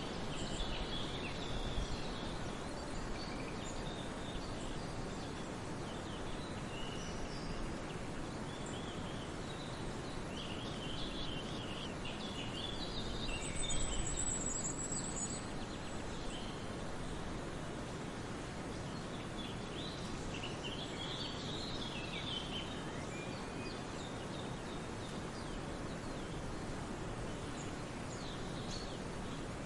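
Forest ambience: a steady background hiss with scattered songbird calls and chirps, busiest around a third and two thirds of the way through, and a brief high trill near the middle.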